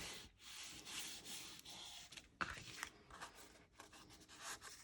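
Soft rustling of paper and cardstock being handled on a table, with a light tap about halfway through.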